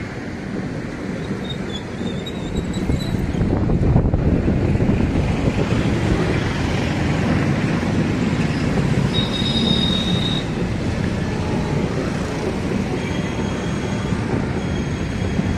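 Express train passenger coaches rolling past on a curve, a steady rumble of wheels on rail that grows louder a few seconds in. A brief high wheel squeal comes a little after the middle.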